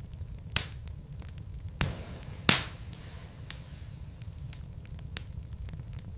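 Wood logs burning in a fireplace, crackling with sharp pops over a low steady rumble of the fire. Three loud pops come in the first half, the third about two and a half seconds in the loudest, with fainter ticks scattered around them.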